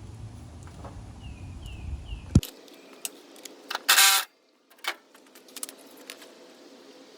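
Handling noises of tools being gathered and put away: small metal clinks and knocks, a sharp knock about two seconds in, and a short loud rustling burst about four seconds in.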